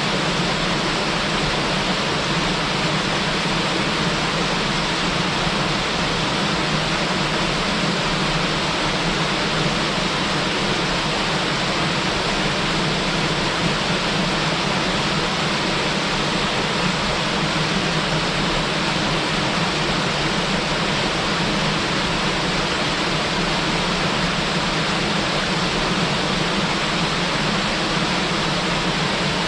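Small waterfall pouring steadily: an even, unbroken rush of falling water.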